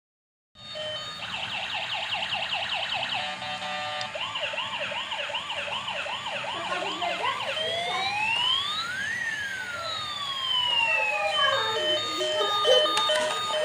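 Electronic ambulance siren cycling through its tones: a fast yelp for about three seconds, then a slower warble, then a long rising-and-falling wail, and near the end a broken steady beeping tone.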